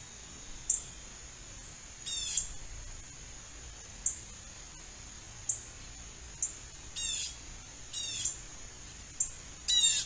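Birds calling: several short, sharp high chips at irregular spacing, and four quick runs of rapidly repeated descending notes, each about a third of a second long, the last and loudest near the end.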